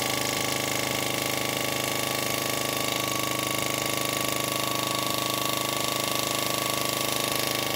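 Small home-built wobbler (oscillating-cylinder) steam engine running steadily under steam, an even, rapid mechanical beat that holds the same speed throughout.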